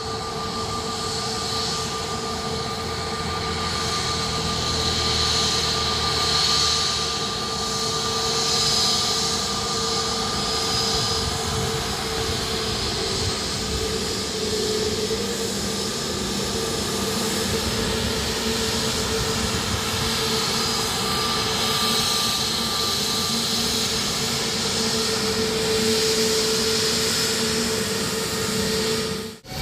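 Airbus A320neo turbofan engines running at a steady, unchanging level, a constant whine over a broad rush.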